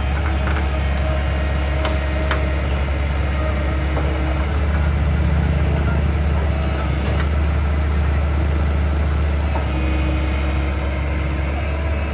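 Backhoe's diesel engine running steadily with an even low hum, and a few faint clicks and knocks from the machine.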